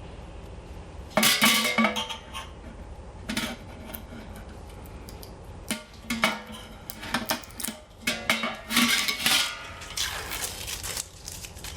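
Steel fire-pit panels knocking and clinking as they are handled, in a string of sharp irregular clanks with some ringing, the loudest about a second in, while the protective vinyl film is worked off the metal.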